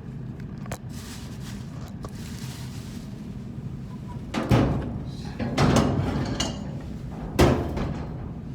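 Three heavy knocks of metal work on a blower assembly, the last the sharpest, over a steady low hum.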